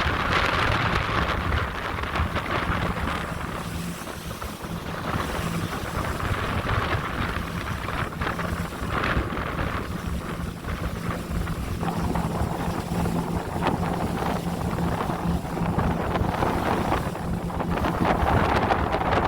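Boat under way: a steady engine drone under a rushing of wind and water that swells and eases, with wind buffeting the microphone.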